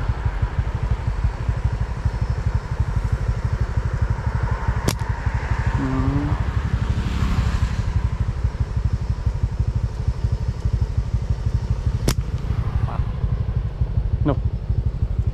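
Small motorcycle engine running steadily with a low, fast-pulsing rumble. Two sharp clicks cut through it, about five seconds and about twelve seconds in.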